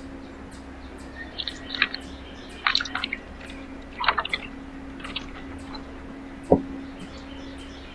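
Birds at a backyard feeder: three short clusters of sharp clicks and chips, with one louder single knock near the end, over a steady low hum.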